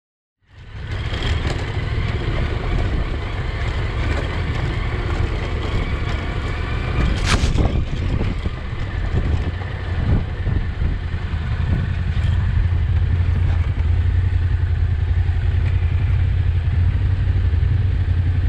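Yamaha Ténéré 700's parallel-twin engine running steadily as the bike rides a rough gravel track, with a sharp knock about seven seconds in.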